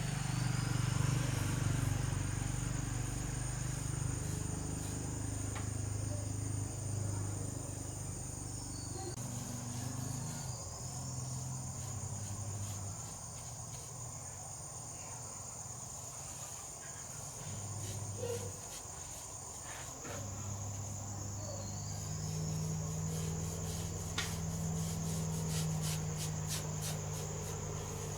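Steady high-pitched insect chirring, like crickets, over a louder low hum that shifts in pitch now and then, with a quick run of clicks near the end.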